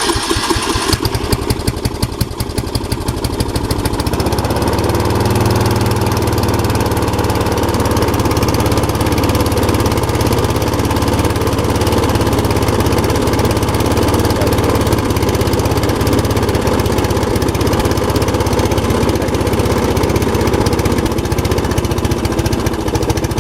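MTD riding lawn mower engine just started cold on choke: uneven at first, then settling into a steady run about five seconds in.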